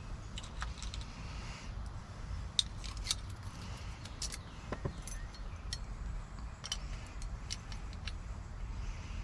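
Scattered small metallic clicks and taps of lock cylinder parts, pins and keys being handled during a lock rekey, over a steady low rumble.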